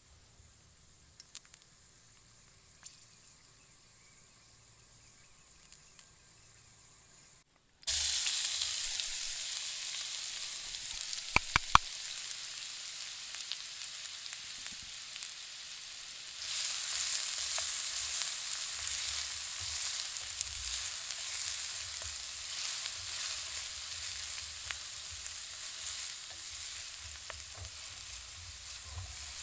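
Food frying in a hot pan: after a few seconds of near silence, a loud sizzle starts abruptly about 8 s in. A few sharp clicks of a utensil against the pan come around 12 s, and the sizzle grows louder from about 16 s on.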